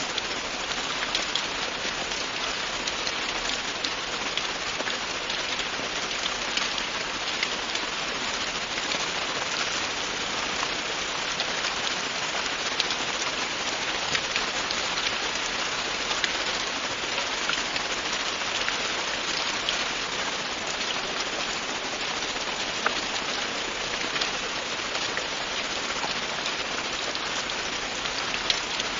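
Steady, continuous rain falling on a surface, an even hiss with scattered individual drop ticks.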